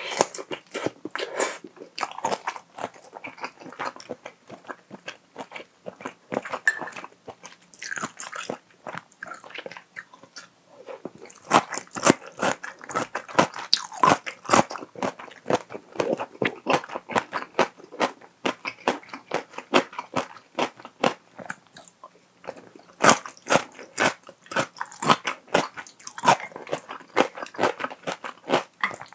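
Close-miked chewing of cream-sauced spicy toowoomba pasta with shrimp and mushrooms: rapid wet mouth clicks and smacks, busier about a third of the way in and again near the end.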